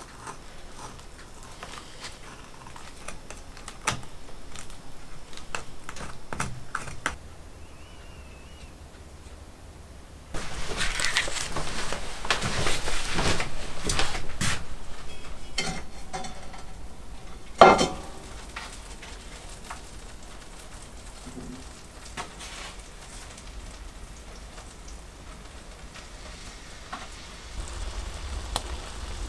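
Cooking sounds: scattered clinks of utensils and dishes, then a louder stretch of sizzling as grouse breasts fry in butter in a cast-iron skillet, with one sharp clank a little past the middle.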